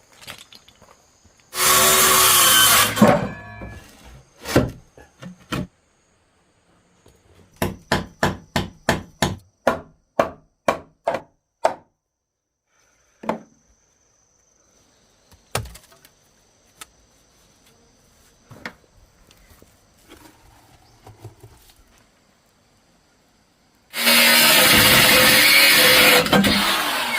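Wood being worked with hand tools: a loud rasping burst of sawing, then a run of sharp chopping or hammering strikes on wood about two a second, a few single knocks, and another loud rasping burst near the end.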